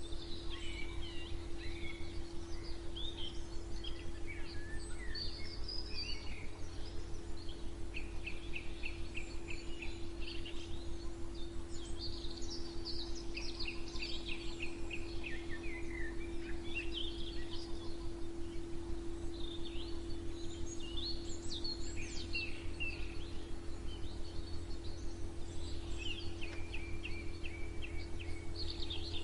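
Several songbirds singing and chirping, with short varied phrases and a few rapid trills of repeated notes, over a steady low hum and rumble.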